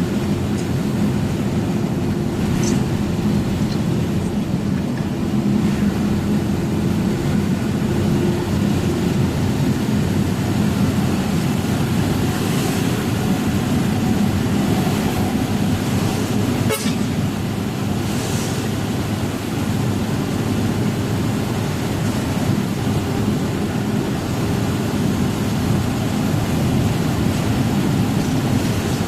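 Truck engine running steadily while driving, a low drone with road noise. A single sharp click comes about midway.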